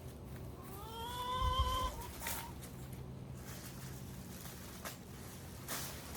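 One drawn-out animal call, rising at first and then held for about a second and a half, followed by a few brief rustles and crackles of vines and leaves being handled.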